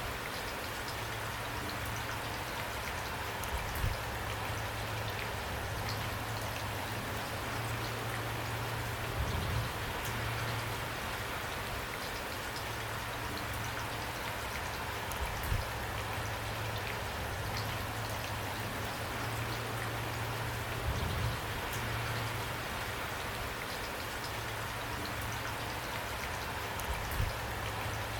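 Steady rainfall with scattered individual drops ticking, and a short soft thud about every six seconds.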